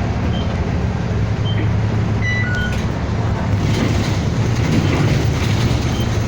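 City bus in motion heard from inside the cabin: steady engine and road rumble, with a few short high beeps about two and a half seconds in.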